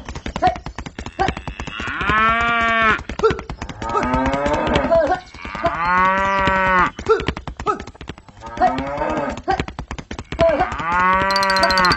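A cow mooing three times, each call about a second long and rising then falling in pitch, over a steady rapid clatter.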